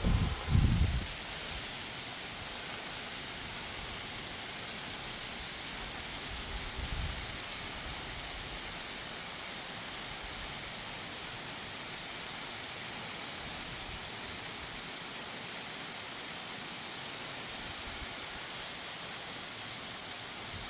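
Steady rain falling, an even hiss. There are brief low thumps in the first second and again about seven seconds in.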